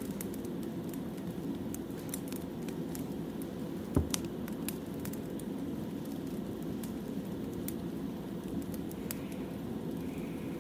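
Burning firewood crackling: a steady low rush with scattered small snaps and pops, and one louder snap about four seconds in.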